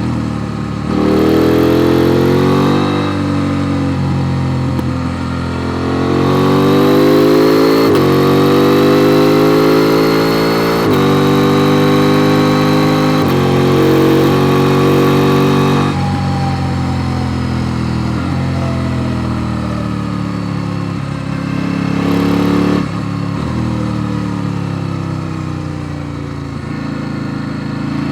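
KTM 890 Duke R's parallel-twin engine accelerating hard up through the gears, its pitch climbing in each gear and dropping at each upshift every two to three seconds. About halfway through it goes off the throttle and runs lower and quieter, pitch falling as the bike slows, with one quick rise and drop near the end.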